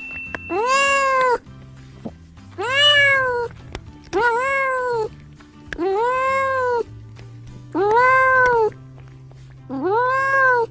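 Domestic cat meowing six times, each a drawn-out meow that rises and then falls in pitch, at a steady pace of one about every two seconds. Soft background music runs underneath.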